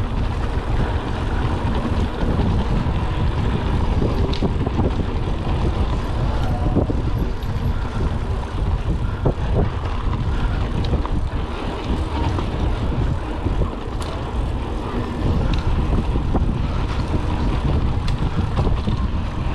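Wind buffeting the camera microphone while riding a mountain bike, a loud, fluttering rumble, with scattered clicks and rattles from the bike over rough ground.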